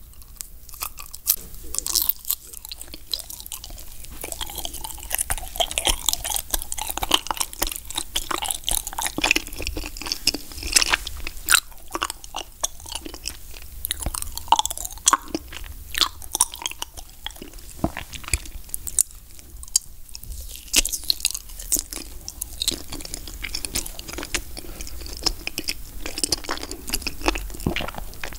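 Close-miked biting and chewing of a watermelon wagashi: wet, sticky mouth sounds broken by many sharp irregular clicks.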